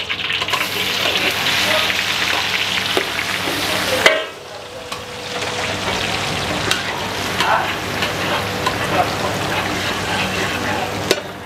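Chopped shallots sizzling hard in a deep pool of hot oil in a large steel wok, stirred with a metal wok ladle. About four seconds in the sizzle drops suddenly after a sharp click, then builds back up.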